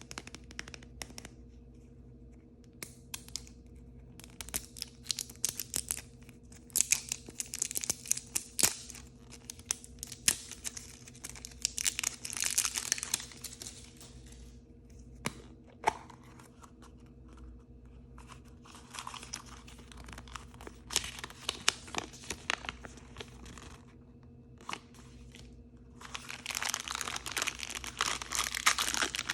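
Packaging of blind bags and surprise toys being torn open and crinkled by hand: irregular bursts of tearing and crinkling with sharp clicks, broken by short pauses, the loudest crinkling coming near the end.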